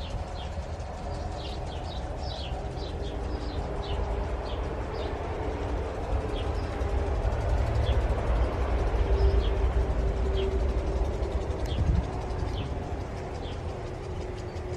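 Small birds chirping repeatedly in short high notes, most often in the first few seconds, over a steady low rumble.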